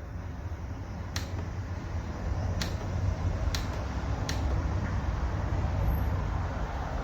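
Portable 12 V air compressor running with a steady low hum that builds up at the start, with several sharp clicks over it.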